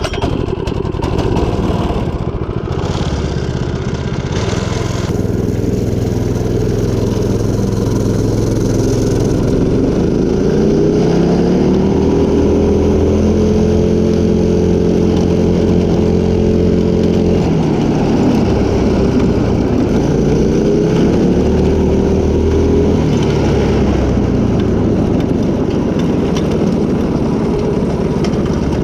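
Stretched mini bike's small gas engine running hard on a top speed run. Its pitch climbs about ten seconds in and holds high, falls off a little past halfway, then climbs again briefly before settling.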